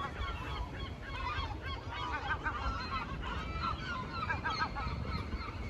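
A flock of birds calling continuously, many short overlapping calls at once, over a low steady rumble.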